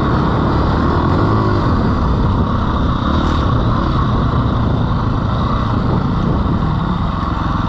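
Dirt bike engine running under way, its pitch rising and falling as the throttle changes.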